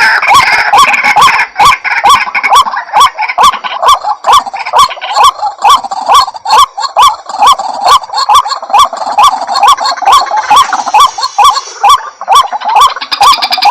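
White-breasted waterhen calling: a loud, rhythmic series of short hooked 'ruak' notes repeated about two to three times a second, with several calls overlapping in the first couple of seconds.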